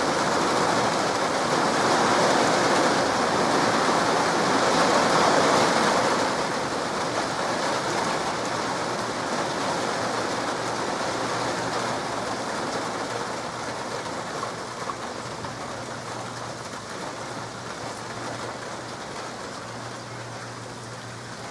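Heavy rain pouring down, loudest for the first few seconds and then gradually easing off. A faint steady low hum comes in about halfway through.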